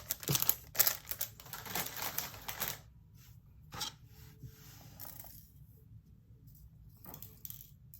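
Diamond painting resin drills clicking and rattling against a small plastic storage container as they are handled. The clicking is dense for about the first three seconds, then thins to a few scattered clicks.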